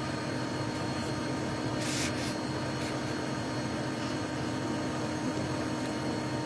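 Steady mechanical drone with a constant hum, broken by a short hiss about two seconds in.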